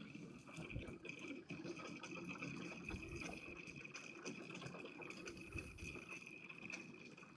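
Gasoline pouring steadily from a fuel can into a plate compactor's small fuel tank, with a faint high ringing tone held throughout.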